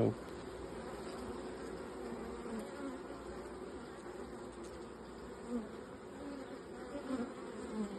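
Honey bees buzzing around an open hive in a steady hum, with single bees' buzzes briefly swelling and gliding in pitch as they fly close.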